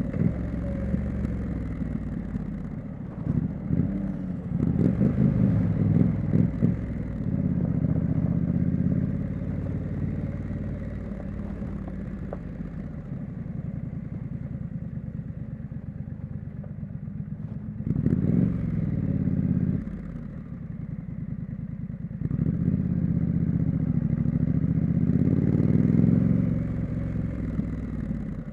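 Triumph Street Scrambler's 900 cc parallel-twin engine and exhaust under way, the revs rising and falling as the bike pulls hard and eases off several times.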